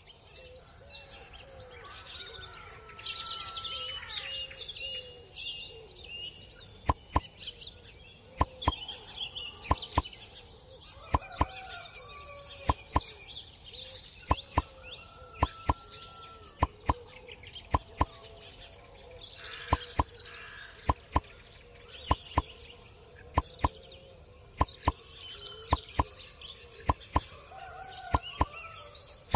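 Birds chirping and calling throughout, with sharp clicks or taps at irregular intervals from about seven seconds in.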